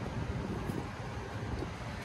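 Wind buffeting the microphone: an uneven, gusting low rumble over a steady hiss.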